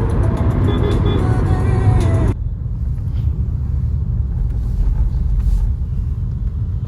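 Low, steady rumble of a car driving on the road. Music plays over it until a little over two seconds in, then the music and all higher sounds cut off suddenly, leaving only the rumble.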